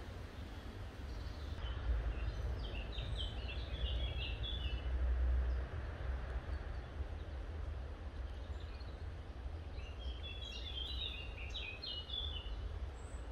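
Birds singing in two bouts of quick high chirps, the first about two seconds in and the second about ten seconds in, over a steady low rumble.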